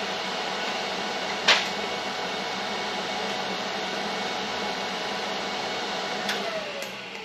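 TIG welder running on stainless steel exhaust pipe, a steady hiss and hum. One sharp click about one and a half seconds in and a few fainter clicks near the end.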